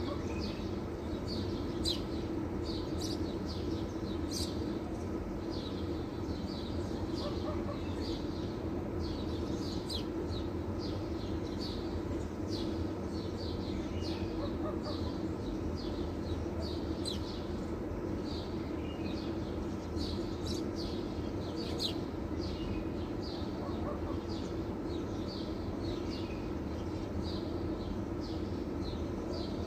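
Small birds chirping, with short high chirps a couple of times a second, over a steady low hum.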